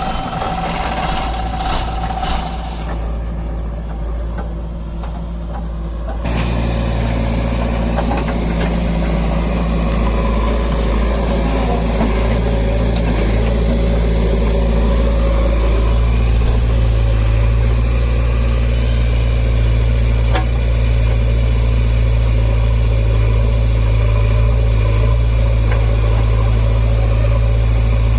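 Heavy diesel engine running steadily at a low idle, growing louder about six seconds in and then holding steady.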